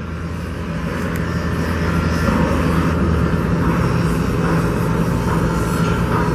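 Steady low engine drone over a rumbling haze, building slightly over the first couple of seconds and then holding.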